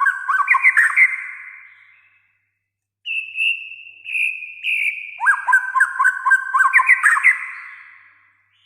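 White-rumped shama (murai batu) singing: a phrase of quick repeated notes that trails off about two seconds in, then after a short pause clear whistled notes that run into another burst of rapid repeated notes, fading near the end.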